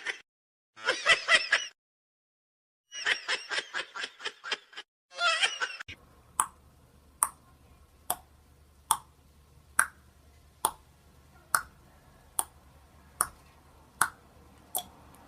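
Bursts of snickering laughter for the first few seconds. Then, about six seconds in, a run of evenly spaced sharp clicks, a little more than one a second, over a faint low hum.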